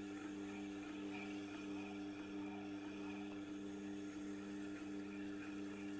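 Tormek T8 sharpening machine running steadily with its leather honing wheel turning, a low even hum.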